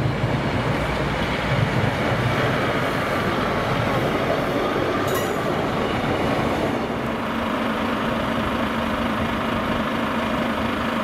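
Class 156 Sprinter diesel multiple unit passing close by, its underfloor diesel engines and wheels on the rails making a steady rumbling rush. About two-thirds of the way through, a steady low hum comes in and holds.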